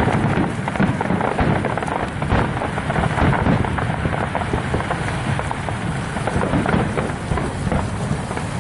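Fireworks display: a dense, unbroken run of bangs and crackles over a low rumble.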